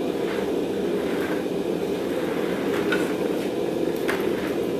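Forge running with a steady rushing noise while a mild steel bar reheats in it, with a faint click about four seconds in.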